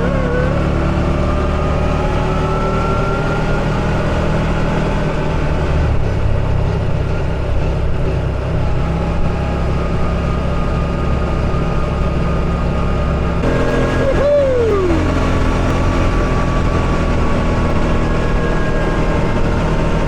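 A buggy's engine running as it drives along a road, its pitch rising and falling slowly with the throttle. A short falling tone sounds about two-thirds of the way through.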